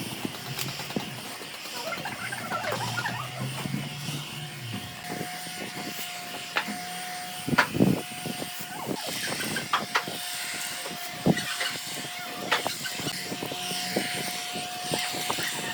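Scattered knocks and clicks, a cluster of louder ones just before halfway, over a steady high-pitched hum.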